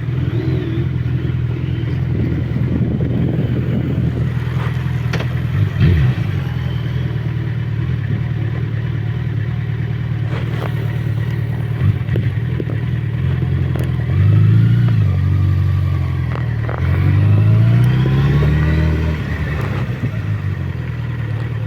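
A motorcycle engine idling steadily, with a couple of light knocks. Twice, about fourteen and seventeen seconds in, the engine note rises and falls as it revs up.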